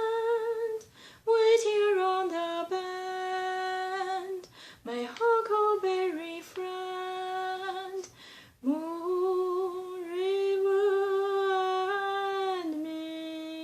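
A woman humming a slow melody unaccompanied: long held notes that slide into pitch, in phrases broken by short pauses for breath, ending on a lower held note.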